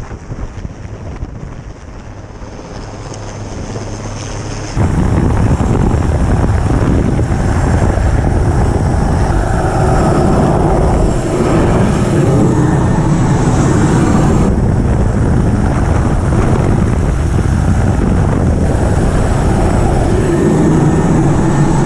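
Helicopter rotor and engine running steadily and loudly, jumping abruptly much louder about five seconds in.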